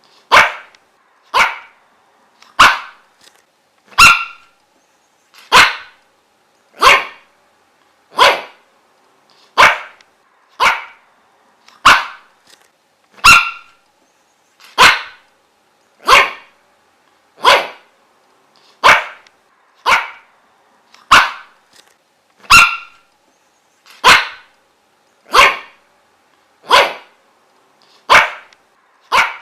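A dog barking in single sharp barks at a steady, regular pace, about one bark every second and a quarter.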